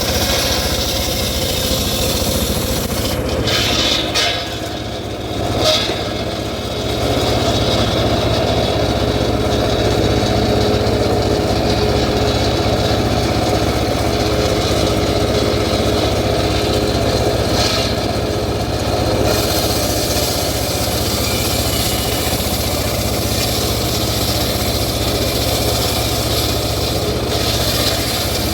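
An engine running steadily, with a short drop in loudness about four to six seconds in.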